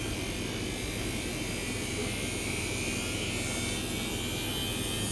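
Washing machine running its spin cycle: a steady motor hum with a faint whine that rises slowly as the drum speeds up.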